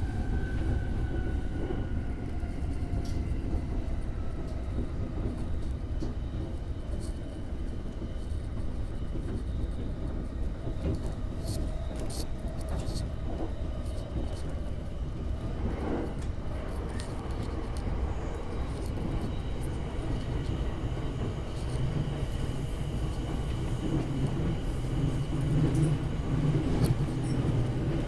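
Electric commuter train running at speed, heard from inside the front car: a steady low rumble of wheels on rail. A thin motor whine falls in pitch over the first few seconds, there are a few sharp clicks around the middle, and the rumble grows heavier near the end.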